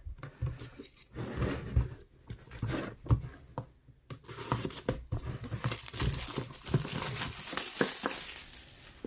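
Plastic packaging crinkling and tearing as a small portable tire inflator is pulled out of its plastic wrap, with irregular crackles and rustles that thicken into steady crinkling in the second half.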